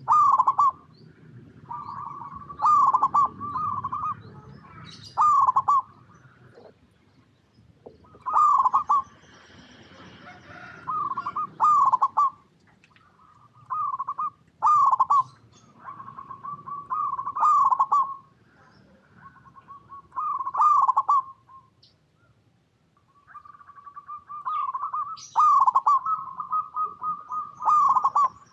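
Zebra dove (perkutut) song: repeated phrases of rapid, rolling coo notes, one phrase every two or three seconds, with a short pause about 22 seconds in.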